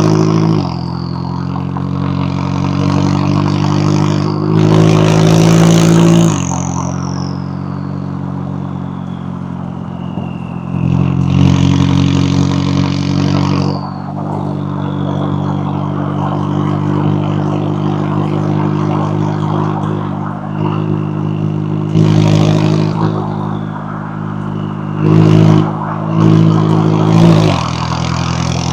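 McLaren 570S twin-turbocharged V8 exhaust under way, surging in several hard throttle bursts of a second to a few seconds each, with the engine note dropping between them. After several bursts a high whistle slides down in pitch.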